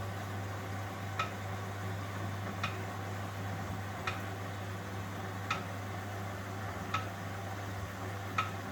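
1971 Constructa Garant 491 washing machine running its wash cycle: a steady low hum from the drum motor, with a light metallic clink repeating evenly about every one and a half seconds.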